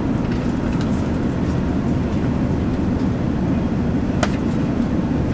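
Steady low rumble of cabin noise inside an Airbus A380, with a sharp click about four seconds in.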